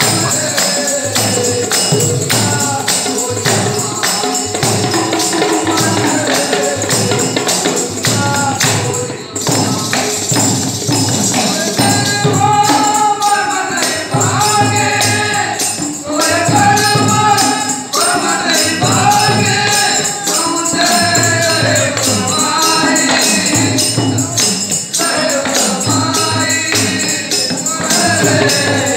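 Ektari bhajan: a devotional song sung over fast, steady jingling hand percussion. The singing comes in strongly about twelve seconds in, in rising and falling phrases.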